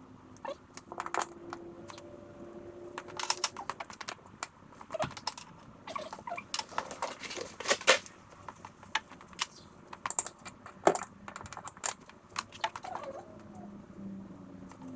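Irregular sharp clicks and light clattering of small metal and plastic parts being handled, as the shifter cables and their fittings are picked up and worked with.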